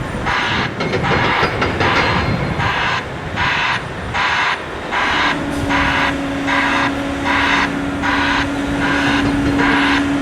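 Broadband white-noise reversing alarm on heavy quarry machinery, hissing in regular pulses about one and a half times a second over big diesel engines running. About halfway a steady hum joins in.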